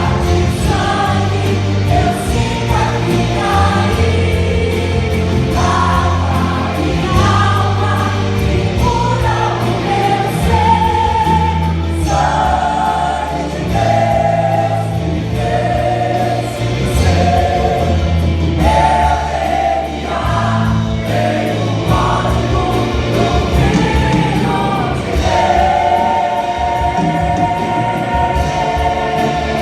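Portuguese gospel song played by a band of keyboard, drums, bass, acoustic guitar, percussion and lead guitar, with a group of voices singing.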